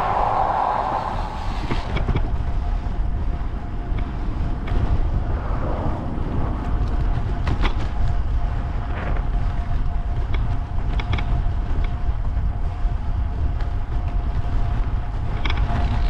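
Wind buffeting the microphone of a bike-mounted camera while riding a road bike: a steady low rumble with occasional short clicks, and a faint steady whine through most of it.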